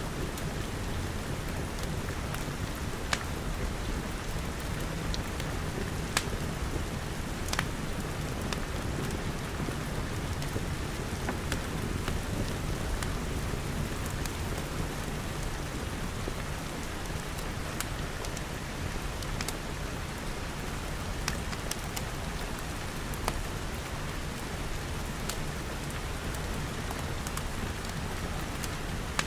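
Steady rain, with scattered sharp pops from a crackling wood fire every few seconds.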